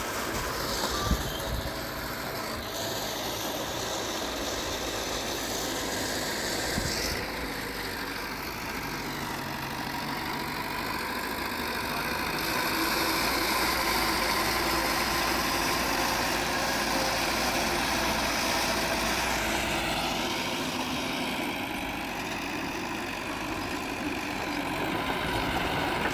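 Diesel earthmoving machinery running steadily, a bulldozer or dump truck engine, growing louder for several seconds in the middle, with a sharp knock about a second in.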